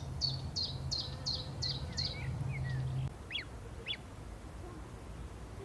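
A bird singing a run of repeated high chirping notes, about three a second, with softer lower chirps beneath, followed by two short downward-sweeping calls. A steady low hum runs underneath and stops about three seconds in.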